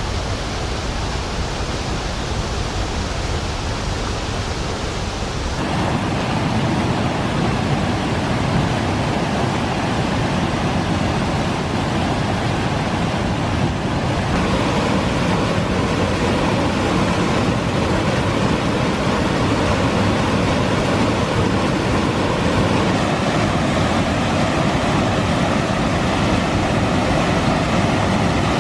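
Kivach waterfall's water rushing steadily. The sound changes abruptly about six seconds in and is fuller from then on.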